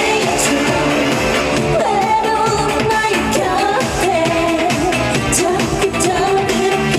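A singer singing over pop-style backing music with a steady beat.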